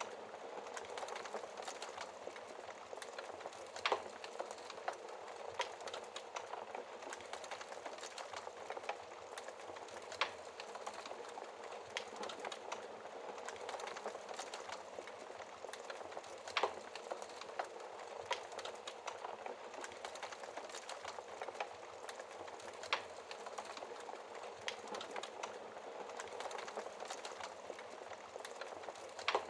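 Wood fire crackling with a steady hiss and many small ticks, broken by a few louder sharp pops spaced several seconds apart.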